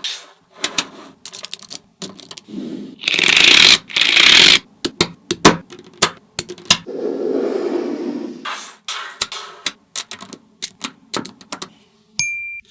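Small magnetic balls clicking and snapping together in quick, irregular ticks, with two longer stretches of balls rattling and rolling against each other. A brief high tone sounds near the end.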